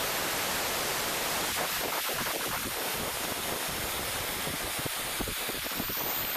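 Nitrogen hissing steadily out of an air-conditioning unit's service port as the test pressure is vented.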